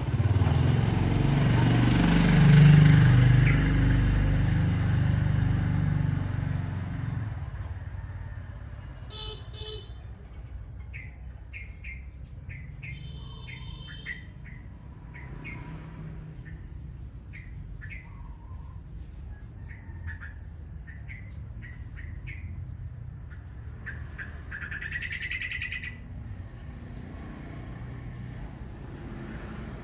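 Birds chirping and calling in short, repeated notes, with one longer, louder call near the end. At the start a loud low rumble, like a passing engine, dies away over the first several seconds.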